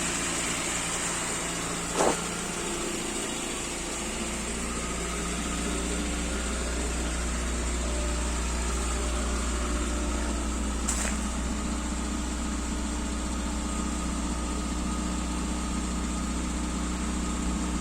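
1993 Skoda Favorit's 1.3-litre four-cylinder engine, running on LPG, idling steadily after a cold start at about 0°C. A brief sharp click about two seconds in, and a fainter one near the middle.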